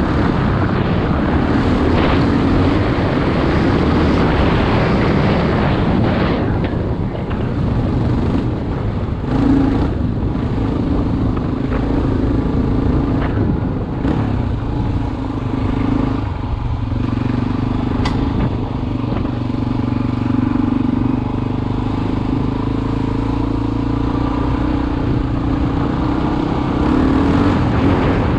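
Four-stroke single-cylinder dual-sport motorcycle engine running under way, picked up from a helmet-mounted camera. A louder rushing noise over the engine for the first six seconds or so, then mostly the steady engine note.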